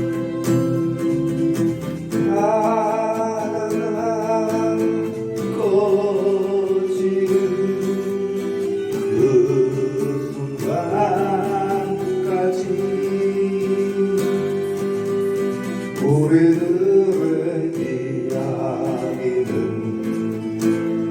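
A song: a singing voice holding long notes with vibrato over strummed and plucked guitar accompaniment.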